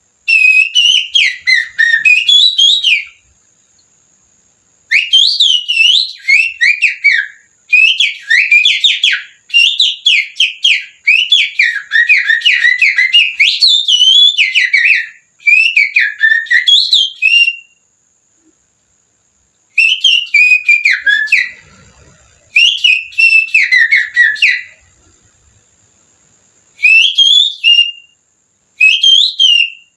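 Finger whistling that imitates an oriental magpie-robin (kacer) song, used as a lure to excite caged birds: a run of fast warbling phrases with rapid up-and-down pitch slides, each a few seconds long and broken by short pauses.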